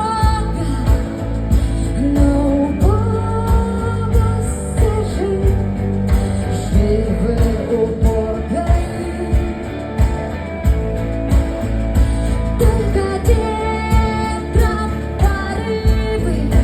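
A live rock band playing a song, with drums keeping a steady beat under a sustained melody line that glides in pitch.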